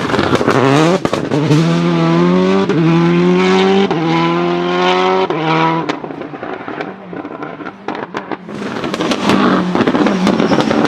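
Citroën Xsara WRC rally car's turbocharged four-cylinder engine accelerating hard, its note climbing through several quick upshifts. About halfway through it comes off the throttle and goes quieter with a series of sharp cracks and pops, typical of anti-lag backfires, before a loud rush of engine and road noise returns near the end.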